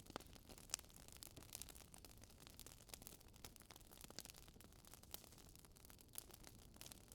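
Faint fireplace crackle: a wood fire's irregular small pops and snaps over a low hiss, with a few sharper snaps.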